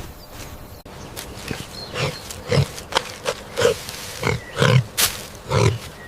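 Pig grunting in a run of short, low grunts, about two a second, starting about two seconds in. There is one sharp click near the end.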